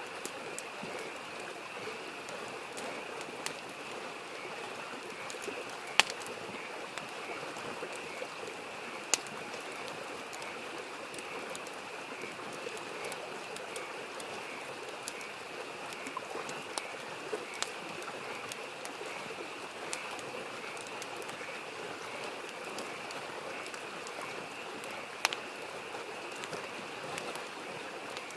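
Wood fire crackling with scattered sharp pops, the loudest about six seconds in, over a steady rushing stream and a continuous chorus of frogs.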